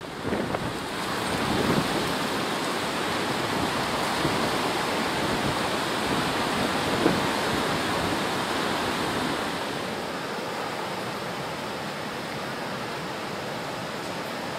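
Ocean surf and swell water rushing in a steady wash, a little quieter after about ten seconds.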